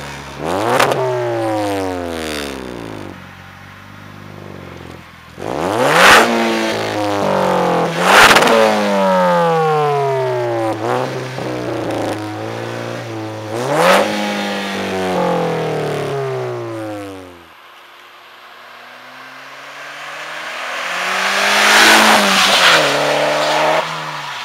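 Car engine revved hard through its exhaust, five times: each rev rises quickly and the pitch falls slowly back down. The last rev builds more gradually to its peak near the end.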